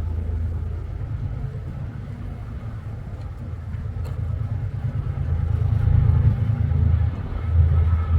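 Diesel freight train running with a low, steady rumble that grows louder toward the end.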